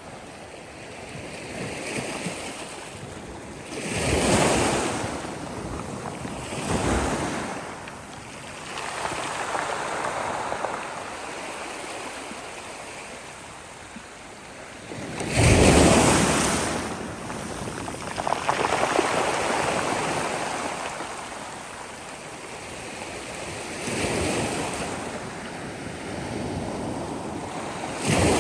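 Sea waves breaking on a beach, a steady rush of surf that swells with each wave, the loudest break about halfway through, with some wind on the microphone.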